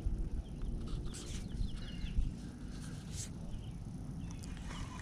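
Faint, short bird chirps repeating over a low, uneven rumbling noise, with a few soft clicks.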